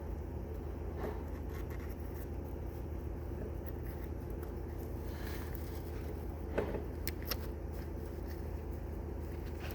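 Steady low hum with a few light clicks and knocks, typical of hands and tools handling metal parts. There is a single click about a second in and a short cluster of clicks past the middle.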